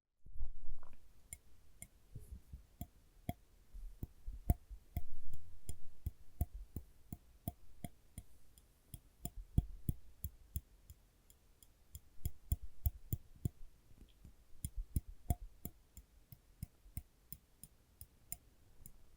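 Tweezers pressed and released close to the microphone: an irregular run of sharp clicks, two to four a second, with soft low thuds from handling.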